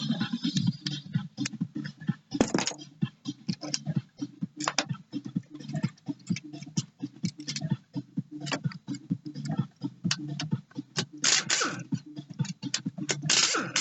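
Hand tools clicking and clinking on metal in quick, irregular strokes as a Yamaha XLT jet ski engine is taken apart, with a few longer scraping sounds, most of them near the end.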